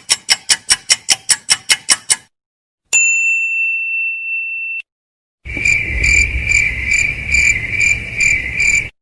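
Three sound effects in a row. First a quick run of short ringing ticks, about six a second, lasting about two seconds. Then a steady high beep of about two seconds that cuts off. Then a crickets-chirping effect, a high pulsing trill over a low rumble.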